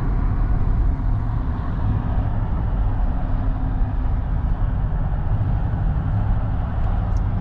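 A car driving along a road: a steady low engine and tyre rumble.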